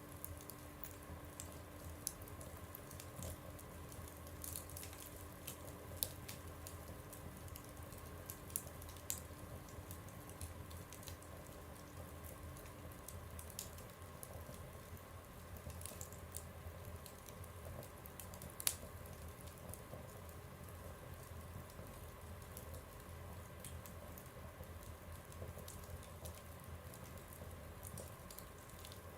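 Wood fire burning in a stove, with sparse sharp crackles and pops over a low steady hum; the loudest pop comes about two-thirds of the way through.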